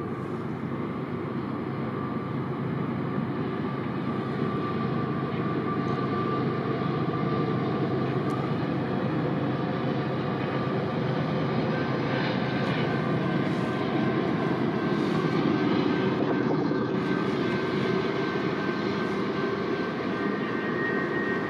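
Diesel locomotives of an approaching freight train, heard from a distance as a steady drone that grows slightly louder. Faint thin high whines join it from about halfway through.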